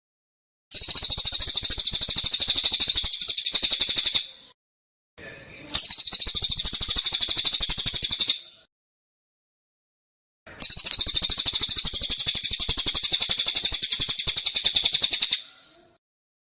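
Recorded songbird giving three long, very fast high-pitched trills of rapidly repeated notes, each lasting about three to five seconds, with short silent gaps between.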